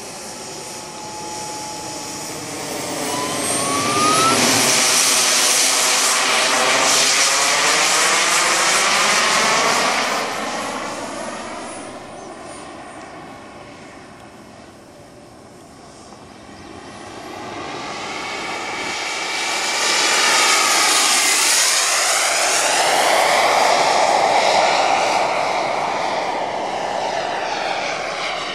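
Radio-controlled model jet flying past twice: its engine grows loud, with a sweeping whoosh as it goes by, fades, then comes round loud again.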